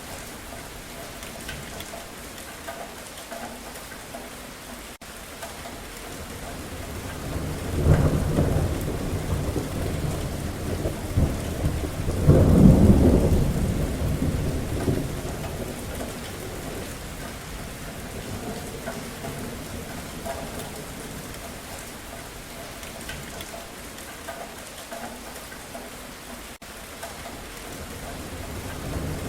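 Steady rain falling, with two rolls of thunder: one breaks in sharply about a quarter of the way through, and a louder, longer rumble comes near the middle and fades out slowly. Another roll of thunder starts right at the end.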